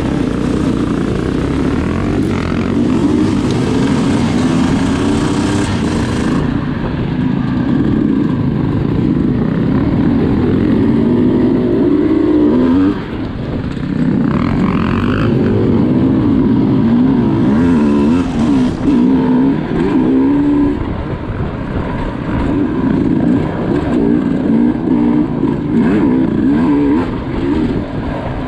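Sherco SE300 two-stroke enduro motorcycle engine revving hard under way, its pitch climbing and falling again and again with throttle and gear changes, with a brief easing of the throttle about halfway through.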